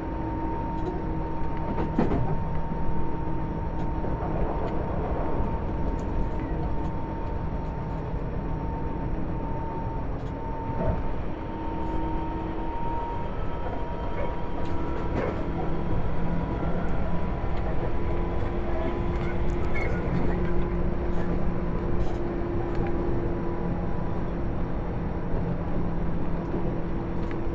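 Tobu 10030 series electric train heard from inside the car while running: a steady rumble of wheels on rail with a constant motor hum and a few sharp clicks.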